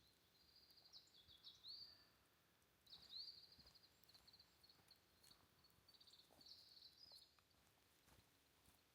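Faint bird song: quick runs of high chirps and trills with upward-sliding notes, in three spells, over quiet forest hiss.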